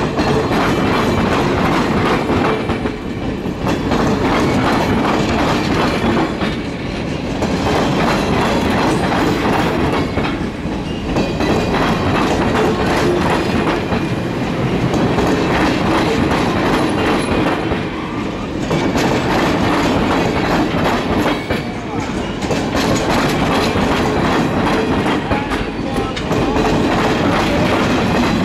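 Circus train cars rolling past close by, steel wheels clattering over the rail diamond crossing. The noise is steady and loud, easing briefly every three to four seconds.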